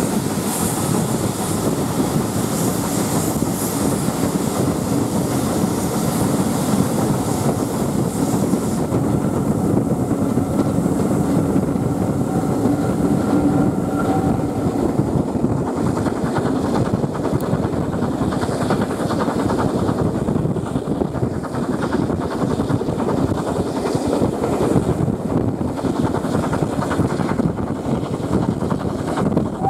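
Steam-hauled train running at speed, heard from an open carriage window: a steady rumble and rattle of the coaches on the rails.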